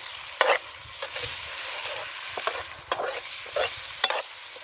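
Onions, tomatoes and red chili sizzling as they fry in oil in a metal pot, stirred with a slotted metal spoon that clinks and scrapes against the pot every second or so.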